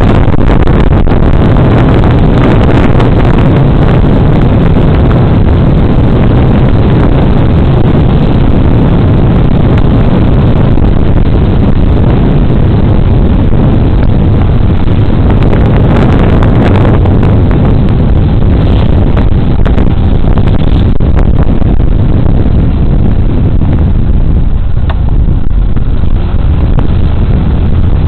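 Loud, steady wind rush and riding noise from a moving Suzuki Burgman Street 125 scooter, buffeting a body-worn camera's microphone, easing a little near the end.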